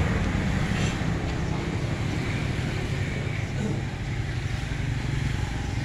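Single-cylinder horizontal diesel engine of a công nông farm truck running steadily.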